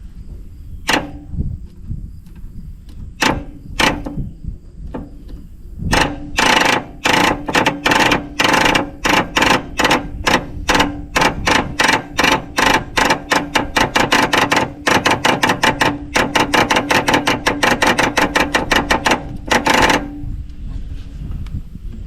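Starter of a 1954 Fordson tractor failing to crank the engine, giving a fast run of sharp metallic clicks, about three or four a second, with a ringing tone under them. The clicks start a few seconds in after some single clicks, and stop shortly before the end. The owner takes the failure to crank as either a locked-up starter or too little current reaching it through loose battery connections.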